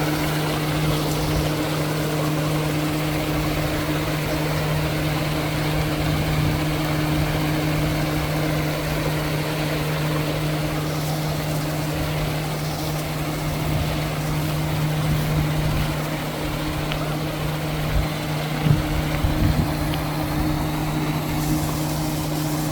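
An engine or motor running steadily with a constant low hum, with a few short knocks near the end.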